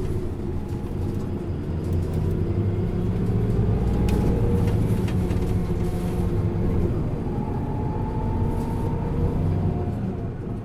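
Isuzu Erga city bus's four-cylinder diesel engine running under way, heard from inside the cabin; its note swells about two seconds in and eases off near the end.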